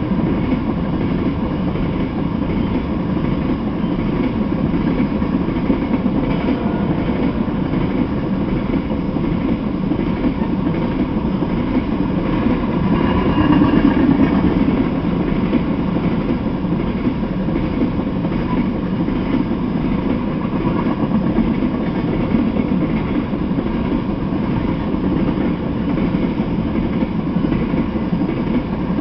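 Freight train of tank cars rolling past, a steady rumble of wheels on rail, briefly a little louder about halfway through.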